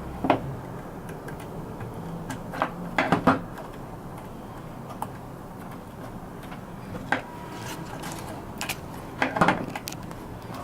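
Scattered clicks and knocks of small tools and parts being handled on a workbench, with a quick cluster of clicks about three seconds in and another near the end.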